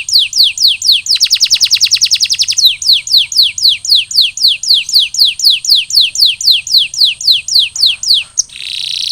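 Canary singing: a run of repeated high notes, each falling in pitch, about five a second. About a second in they break into a fast trill, then return to the falling notes, and near the end there is a short held note.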